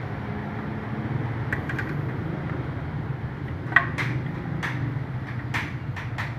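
Steady low mechanical hum with scattered sharp metallic clicks and clinks of tools being handled, the loudest about four seconds in.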